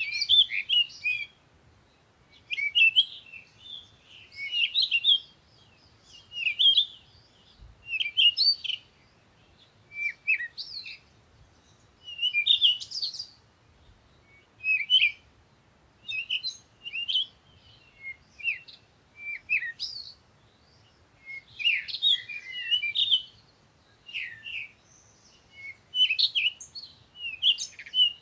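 Birds chirping: short, twittering phrases of quick pitch-sliding notes, repeated every second or two with brief quiet gaps between.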